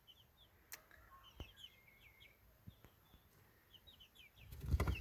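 Faint high chirps and peeps from young chickens, coming in small clusters, with a few light knocks. A low rumbling noise builds near the end.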